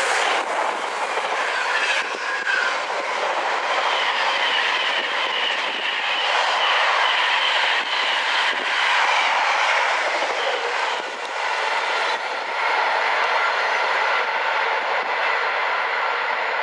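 A train's wagons rolling past on the rails, a loud, steady running noise that holds its level throughout.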